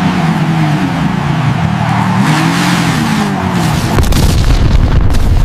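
A car engine revving up and down repeatedly, joined by a deep rumble about four seconds in.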